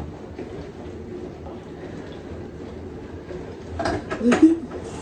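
A faint, steady background hiss, then a short burst of a person's voice about four seconds in.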